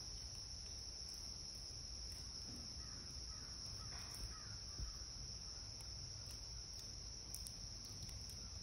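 Steady high-pitched trilling of crickets, with a few faint bird calls about three to four seconds in.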